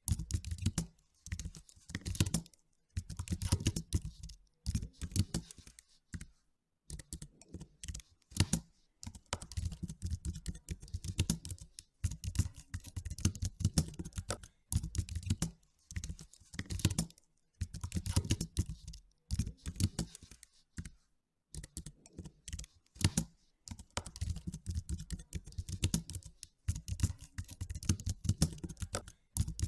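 Typing on a computer keyboard: rapid keystrokes in runs of a second or two, broken by short pauses.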